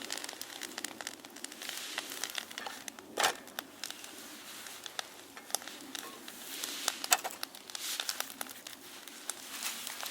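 Irregular crinkling and crackling with many small sharp clicks, and a louder snap about three seconds in and again about seven seconds in.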